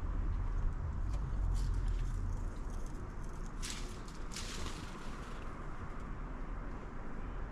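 Outdoor background with a steady low rumble like distant traffic, stronger in the first couple of seconds, and two brief rustling hisses about three and a half and four and a half seconds in.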